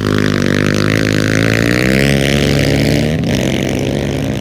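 Engine of an off-road race bike or quad running hard, its pitch slowly climbing and then shifting abruptly about three seconds in.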